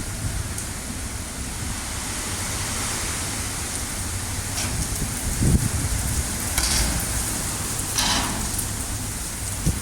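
Heavy thunderstorm rain pouring steadily, with wind buffeting the microphone in a low rumble. A few brief, louder hissing rushes come about four and a half, seven and eight seconds in.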